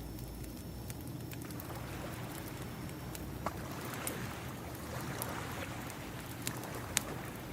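Ocean waves washing in, layered with a wood fire crackling: scattered sharp pops over a steady surf rumble, with one louder pop near the end.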